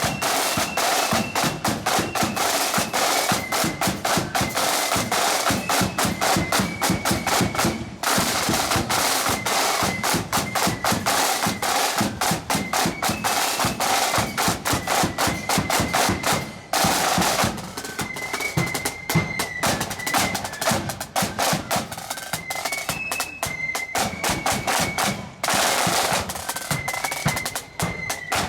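Marching band playing: rapid snare drum rolls and bass drum beats under a high, stepping melody line, with the drumming briefly dropping out a few times.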